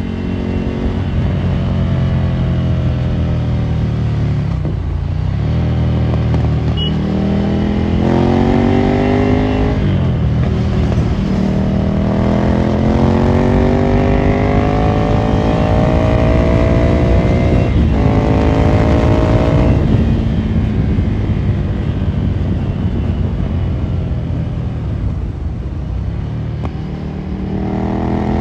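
Ducati Monster 797's air-cooled L-twin through a Termignoni exhaust, ridden and accelerating through the gears: the engine note rises, then drops abruptly at each of several shifts, and falls off as the bike slows near the end.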